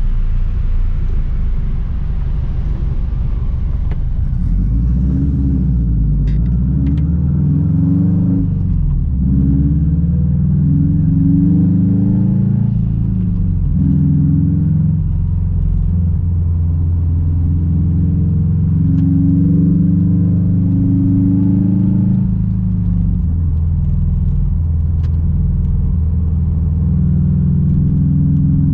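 Straight-piped 2006 Subaru WRX STI's turbocharged 2.5-litre flat-four engine and exhaust, driving. The engine note climbs and drops several times in the first half, as when pulling through the gears with shifts in between, then holds fairly steady while cruising.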